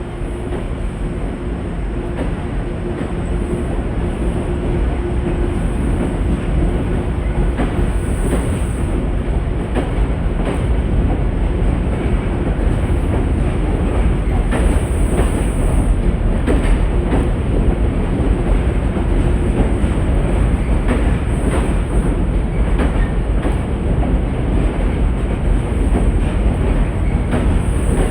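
Metro-North commuter train running along the tracks, its wheels clacking over rail joints, growing louder over the first several seconds and then holding steady.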